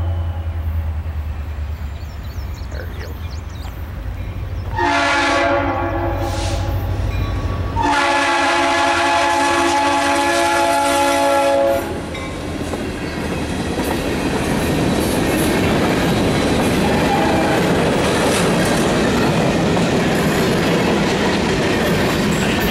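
Horn of an EMD SD40-2 diesel locomotive sounding for a grade crossing: a blast trailing off at the start, then two long blasts about five and eight seconds in over the locomotive's low engine rumble. From about twelve seconds in, the freight train's cars roll past with steady wheel clatter on the rails.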